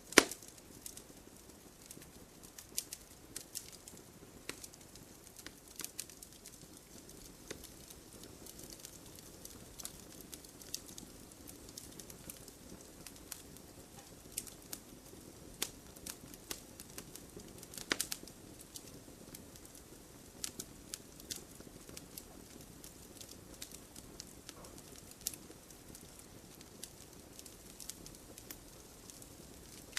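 Wood campfire crackling: irregular sharp pops and snaps over a soft, steady low hiss of burning, with a loud pop right at the start and another about eighteen seconds in.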